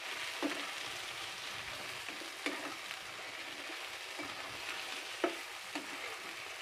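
Chunks of elephant foot yam and potato sizzling steadily as they fry in mustard oil, stirred with a spatula that knocks against the pan several times.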